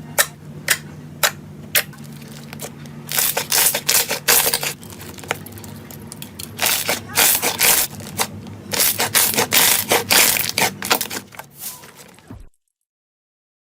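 Slime being pressed and worked by hand: four sharp pops about half a second apart, then long runs of dense crackling that fade off and end in silence near the end.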